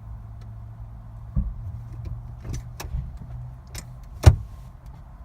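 Automatic car's gear selector being shifted back and forth between gears while the car won't start: a series of clicks and clunks, the loudest about four seconds in, over a steady low hum.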